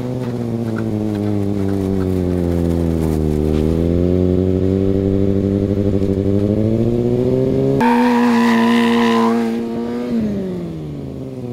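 Kawasaki Ninja sport bike engine still running after the bike has been dropped, its pitch sagging and then climbing with the throttle. It gives a sharper rev about eight seconds in, then drops back as the bike moves off.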